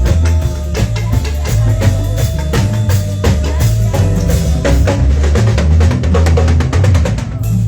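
A live band playing, with a drum kit beating out a steady rhythm on kick and snare over a heavy bass line and a held tone.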